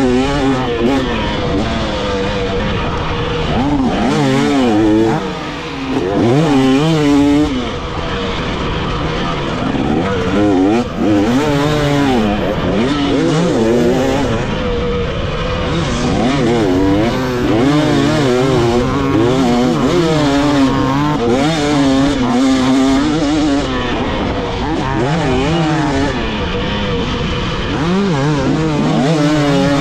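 Dirt bike engine being ridden hard, its pitch rising and falling over and over as the throttle is opened and closed and gears change.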